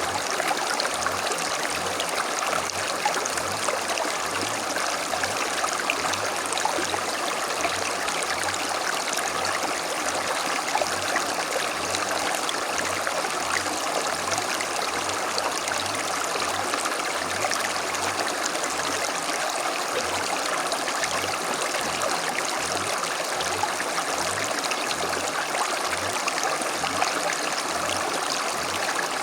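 Small creek flowing steadily over stones, a continuous babbling rush of water.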